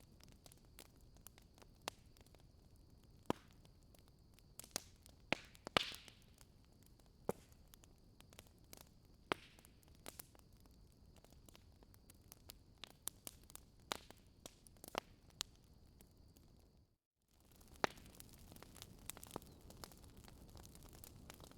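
Wood fire in a fireplace crackling: irregular sharp pops and snaps over a low hiss, the loudest around six seconds in. The sound drops out briefly about seventeen seconds in, then the crackling resumes.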